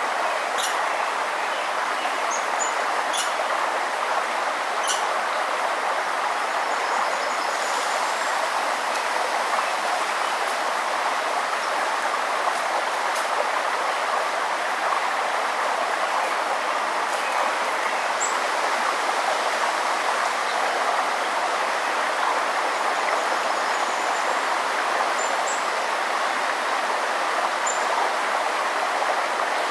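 A stream or small river flowing steadily, with scattered short, high bird chirps above it.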